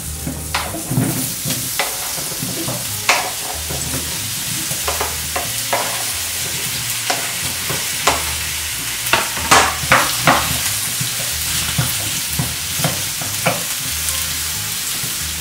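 Diced zucchini sizzling in hot olive oil in a frying pan, with a steady sizzle building from about a second in. Over it come many short knocks and scrapes of a wooden spatula pushing the pieces off a cutting board and stirring them in the pan, loudest about ten seconds in.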